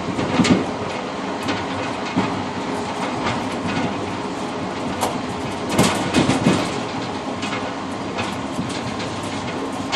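Passenger train riding noise heard from inside the rear car: a steady rolling rumble of wheels on rails, with irregular clacks from the wheels crossing rail joints. A cluster of louder knocks comes about six seconds in.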